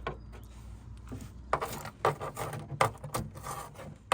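Handling noises: a run of small clicks, knocks and rubbing begins about one and a half seconds in, over a low hum.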